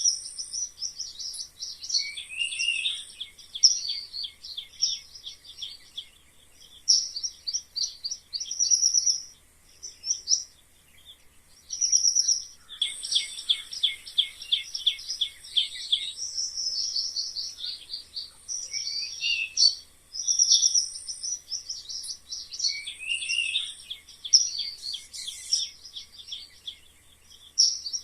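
Mice squeaking: rapid runs of short, high-pitched chirping squeaks, some gliding upward, in bouts a second or two long with brief pauses between.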